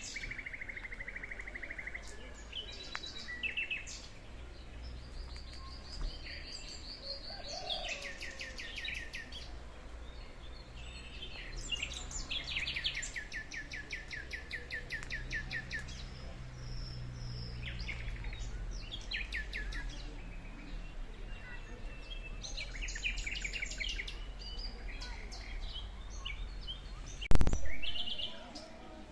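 Several songbirds singing and calling, with fast trills of quickly repeated notes. A single sharp thump near the end is the loudest sound.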